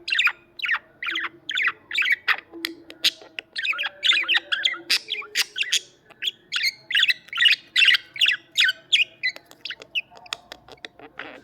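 Budgerigars chirping and chattering in a quick run of short, scratchy calls, about two or three a second, which thin out near the end.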